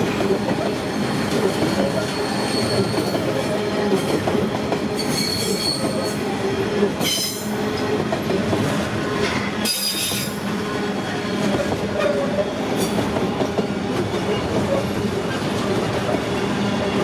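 Intermodal container wagons of a long freight train rolling past on the rails: a steady rumble and clatter of wheels, with several brief high-pitched wheel squeals, the strongest around the middle.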